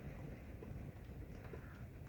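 Faint, steady low rumble of a truck's engine heard inside the cab, with light ticks about two a second.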